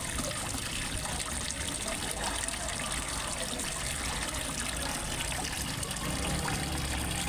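Water steadily trickling and splashing as it falls into a fish pond.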